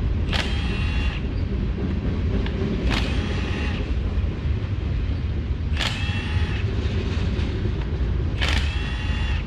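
Low, steady rumble of a slow train going by, with four short whirring bursts from a power tool, each under a second and a few seconds apart, as bolts on the powershift valve block are loosened.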